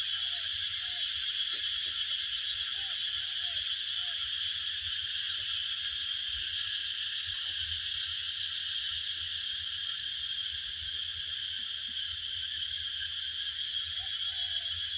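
A steady nighttime-style animal chorus: a constant high, dense buzz from many callers at once, with a few short, low, falling calls during the first few seconds and again near the end.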